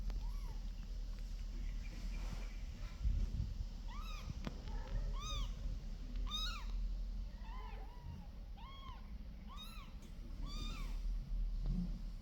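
Kittens meowing: short, high, arched mews, about one a second through the middle of the stretch.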